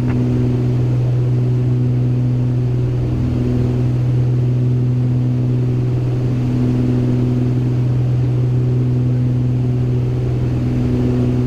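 Cabin drone of a Beechcraft G58 Baron's twin piston engines and propellers in flight: a steady low hum with higher tones that swell and fade about every three seconds.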